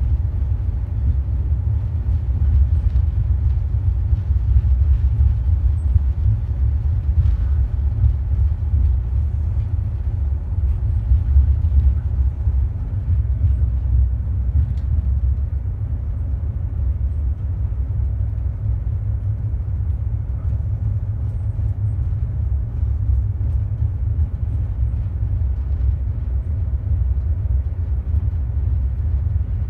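Budd RDC diesel railcar in motion: a steady low rumble from its engine and wheels on the rails.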